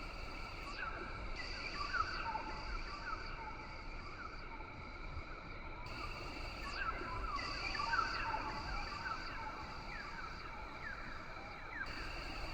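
Rainforest ambience: a steady chorus of high droning calls, with a higher buzz that switches on and off every few seconds and many short chirps over it.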